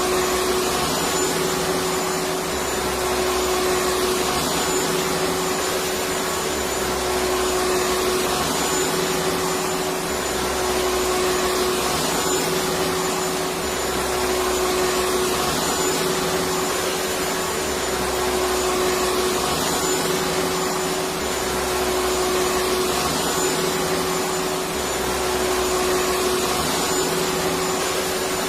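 Electric vacuum cleaner running continuously: a steady rushing noise with a constant motor hum, over a low rumble that swells and drops every couple of seconds.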